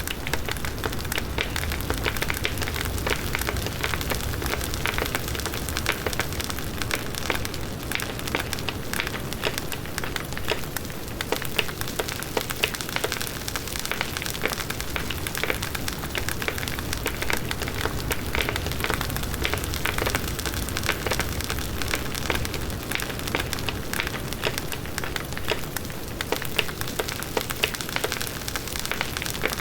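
Large wood bonfire burning steadily: dense, irregular crackling and popping of burning wood over the low rushing of the flames.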